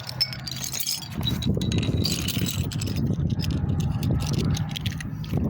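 Metal beer bottle caps rattling and clinking together as they are gathered up.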